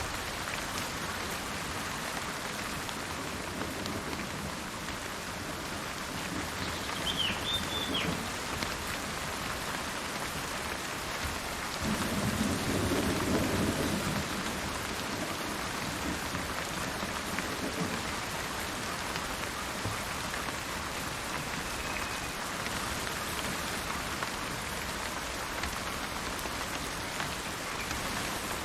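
Steady rain falling, with a low rumble of thunder about midway through. A bird gives a brief chirp about a quarter of the way in.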